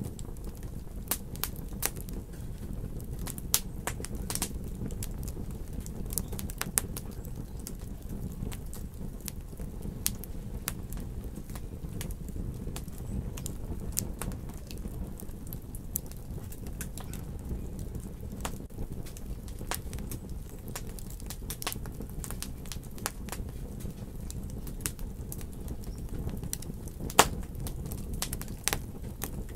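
Wood fire burning in a fireplace: a steady low rumble with irregular sharp crackles and pops, a few louder pops near the end.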